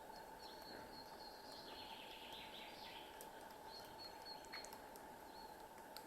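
Faint forest ambience with thin, high small-bird calls, a short cluster of chirps about two seconds in, over a steady low hiss.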